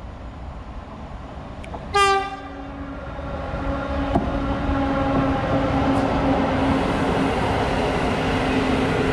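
Passenger train running through the station: one short, loud horn blast about two seconds in, then the rising rumble of the locomotive and coaches rolling past on the rails, with a steady hum underneath.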